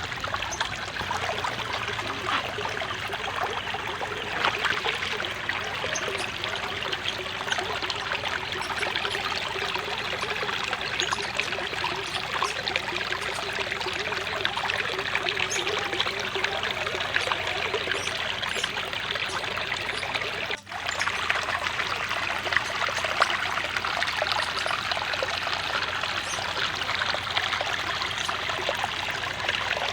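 Water trickling and splashing steadily into a koi pond, with a brief break about two-thirds of the way in.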